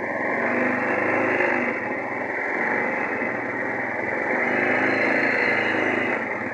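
Long-tail boat engine running hard, its note swelling about half a second in, easing briefly, then rising again.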